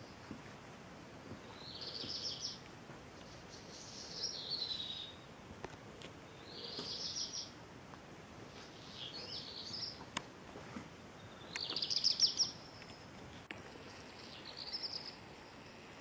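A songbird singing short, fairly high phrases, six in all, each about a second long and spaced about two and a half seconds apart, over faint outdoor background noise.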